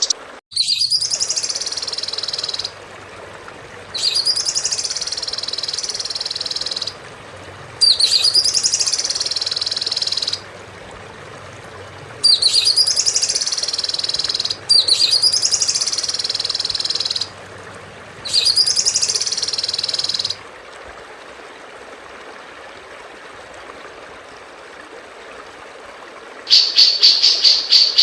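Recorded songbird song played as a training track: one phrase, a quick sweeping whistle running into a buzzy, sustained trill, repeated six times in identical form about two seconds apiece. After a pause with only background hiss, a different bird's rapid, pulsing trill begins near the end.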